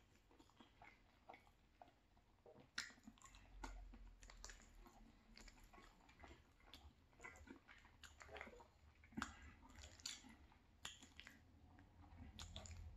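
Quiet close-miked chewing of cheesy penne pasta, with wet mouth smacks and short sharp clicks scattered throughout.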